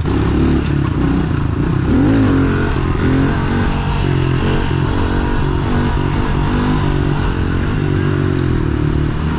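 Pit bike engine running hard under way, its pitch climbing and dropping repeatedly as the throttle is worked, with one sharp rev about two seconds in.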